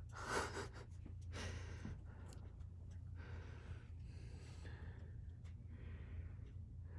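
Soft breathy exhales and sighs from a person, several short puffs, over a steady low hum.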